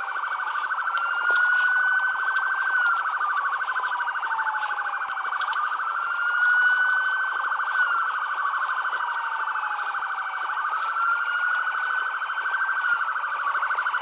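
Police car sirens sounding together: one wails slowly up and down, rising over about two seconds and falling over about three, over a steady fast-pulsing siren tone.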